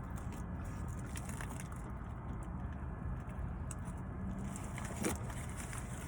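Steady low rumble of a car, heard from inside the cabin, with a few faint clicks and rustles, the clearest about five seconds in.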